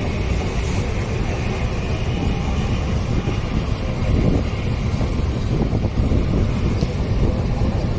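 A train running along the track, heard from inside at its window: a steady low rumble.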